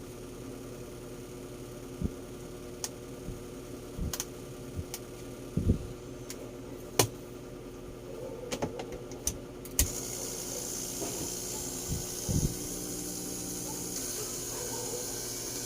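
Scattered clicks and knocks of a handheld salon hair dryer being handled over a low hum. About ten seconds in it is switched on with a click and runs with a steady airy hiss.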